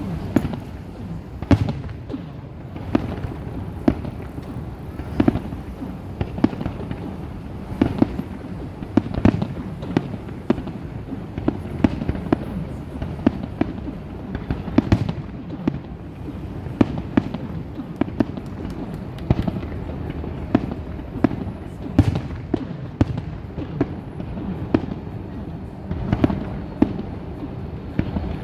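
Aerial fireworks bursting in a rapid, irregular barrage, many sharp bangs a second over a steady rumble of booms and crackle.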